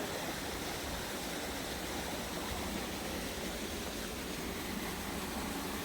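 A steady rushing noise at an even level, with no distinct events.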